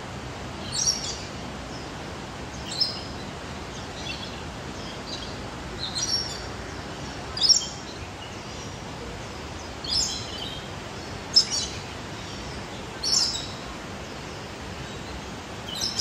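A bird calling over and over: short, high, sharp notes that each drop in pitch, about one every two seconds, above steady background noise.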